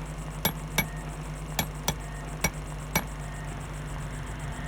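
A series of sharp metallic clinks, several in the first three seconds and then stopping, over a steady low hum.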